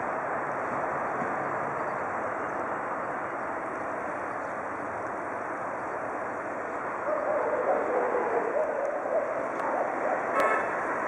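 Steady noise of a train at a railway station. A wavering higher sound joins about seven seconds in, and there is a brief sharp click near the end.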